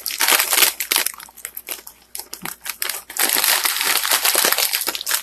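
Crinkling and crackling of a dry stuffing-mix packet being handled and opened, in uneven bursts, with a dense stretch of crackling in the second half.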